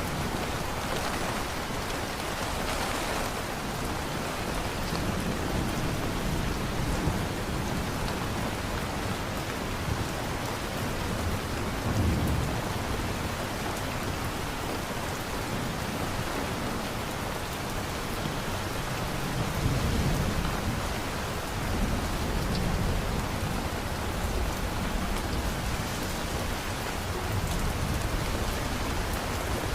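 Steady heavy rain falling, with low rolls of thunder swelling about twelve and twenty seconds in.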